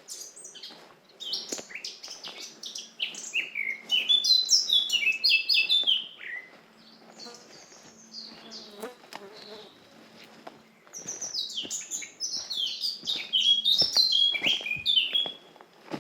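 Forest songbird singing two long runs of quick, falling high notes, one in the first six seconds and another starting about eleven seconds in. A faint steady insect buzz runs underneath.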